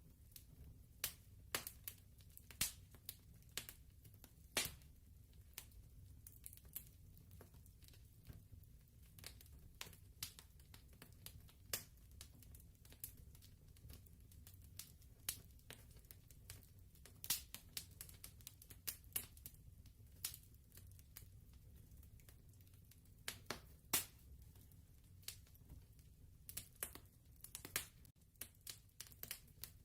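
Fireplace crackling softly: irregular sharp snaps and pops over a low steady rumble.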